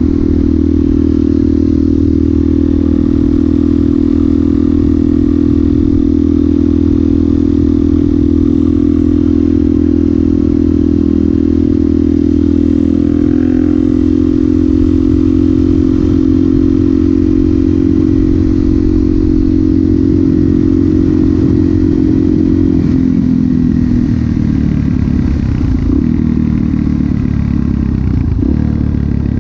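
Suzuki DRZ400SM's single-cylinder engine through a Yoshimura exhaust, running steadily under way. Its pitch eases down slightly and the note gets rougher about three-quarters of the way through.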